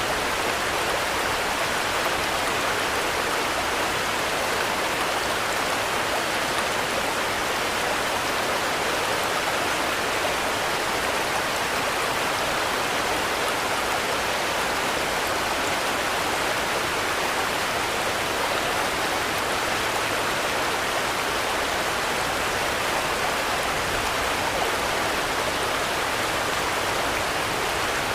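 Steady rain falling, an even hiss with no breaks, swells or thunder.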